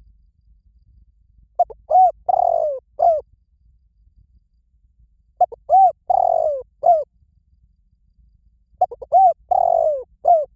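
Spotted dove cooing: three phrases about three and a half seconds apart, each made of a couple of short coos, a longer falling coo and a final short coo.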